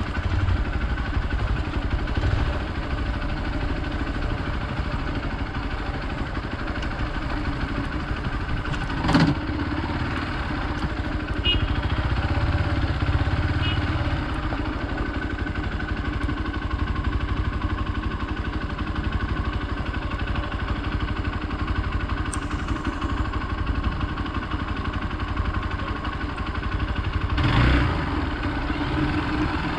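Hero Xpulse 200 motorcycle's single-cylinder engine running steadily while the bike is ridden, with two brief thumps, about nine seconds in and near the end.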